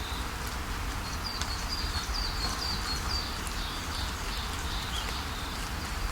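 Steady rainfall with a bird singing a quick run of short, repeated high chirps from about a second in until past the middle.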